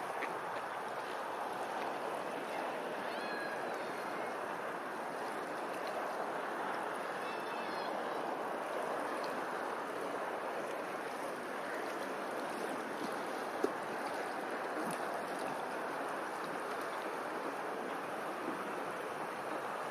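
Steady rush of flowing water, with a few faint high chirps a few seconds in and again near seven seconds. A single sharp click comes about fourteen seconds in.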